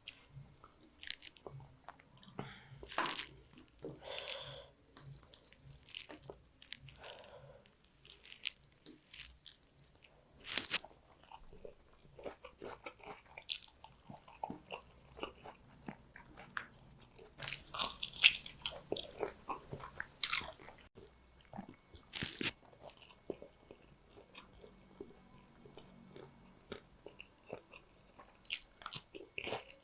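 Close-miked chewing and biting of a meal of fish curry and rice: irregular crunches and wet mouth clicks, with a dense run of crunching about two-thirds of the way through.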